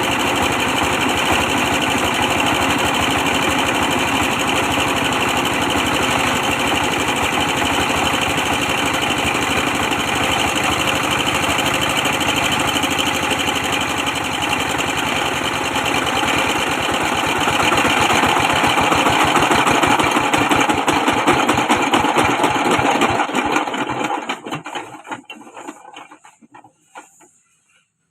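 A 24 hp diesel engine running steadily. From about halfway through its firing beat slows, then the sound dies away over the last few seconds: the engine is being shut down and coasting to a stop.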